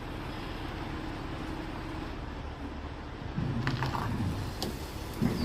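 Semi truck being winched or towed out by a heavy wrecker: a steady low engine rumble, with creaks and a few sharp clunks from the rig starting about halfway through.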